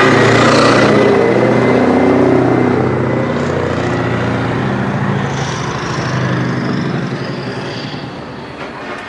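Heavy truck's diesel engine running as it passes close by, loud at first and fading steadily as it moves away.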